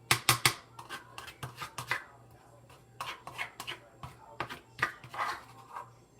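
Kitchen utensils and dishes knocking and clinking during food preparation: irregular sharp knocks, loudest in a quick cluster right at the start.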